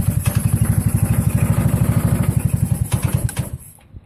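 150cc go-kart engine running with an even pulsing beat, then spitting and sputtering and dying out about three and a half seconds in: the tank is low on gas.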